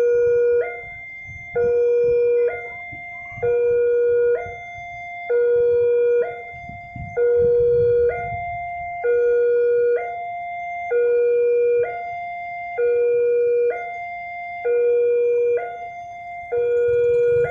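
Electronic railway level-crossing alarm ringing steadily, a repeating two-tone signal about once a second: a lower tone, then a short higher one. It is the warning that a train is approaching and the crossing gates are closing. A faint low rumble runs underneath.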